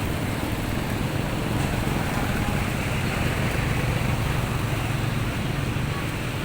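Steady low rumble of a vehicle's engine and road noise, even in level throughout.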